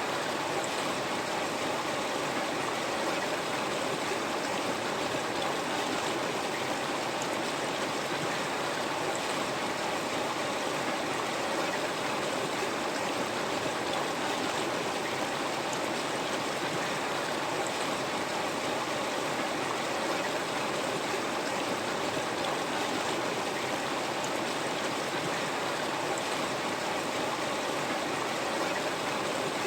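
River water flowing steadily, a continuous rushing and babbling of a stream with no pauses or changes.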